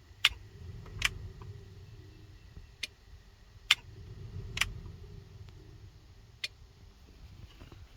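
Six sharp clicks and knocks spread over several seconds, as of parts and panels being handled and put back in place, over a faint low rumble.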